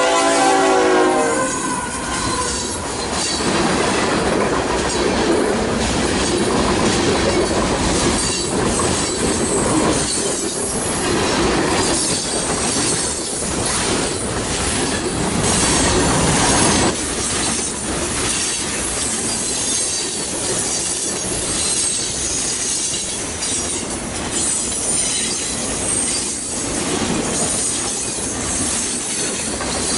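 A GE freight locomotive's K5HL five-chime horn sounds a chord that cuts off about a second in. The locomotive and the cars of a mixed freight train then roll past close by, with steady wheel clatter over the rail joints and high-pitched wheel squeal.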